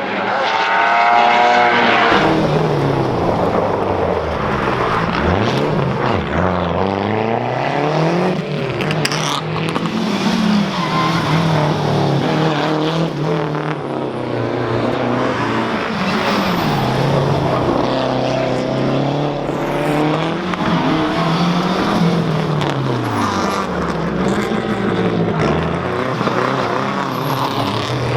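Turbocharged four-cylinder engine of a Lancia Delta HF Integrale Group A rally car at racing speed, revving up and dropping back again and again as it changes gear and slows for corners.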